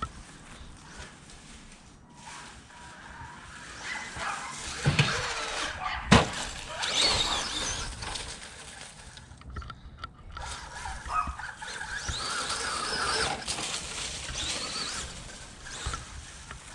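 Electric RC stadium truck running on a 3S LiPo, its motor whining up and down in pitch as it speeds up and slows. Two sharp knocks come about five and six seconds in.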